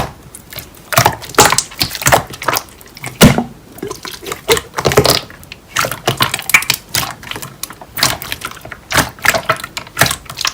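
Slime being squeezed and poked by hand, making irregular wet, sticky clicks and pops, with a louder pop a little past three seconds in.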